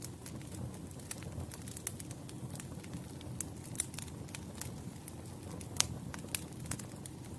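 Wood fire burning: a steady low rumble of flames with irregular sharp crackles and pops, a few louder pops standing out.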